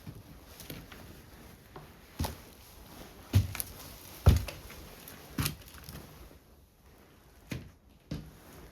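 Irregular thumps and knocks of someone moving about and handling things in a small room, about six in all, the two loudest a little past the middle.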